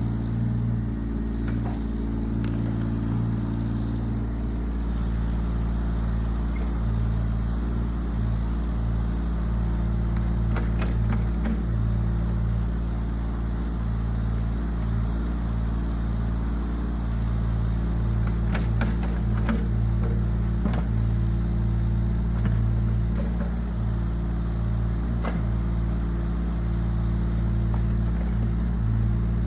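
Yanmar ViO17 mini excavator's three-cylinder diesel engine running at a steady speed, with a few short knocks and clanks, a cluster of them a little past halfway.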